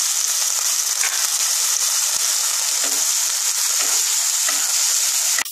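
Chopped onion, ginger and tomato sizzling in hot vegetable oil in a non-stick kadai, stirred with a wooden spatula with light scraping strokes. The sizzle drops off suddenly near the end.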